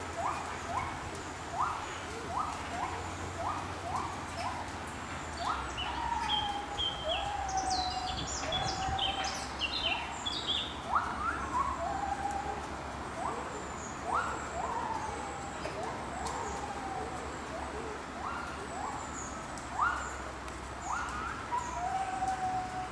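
Woodland birds calling: short rising calls repeated over and over, mixed with longer held whistles. There is a burst of high, quick chirps from a second bird about a third of the way in.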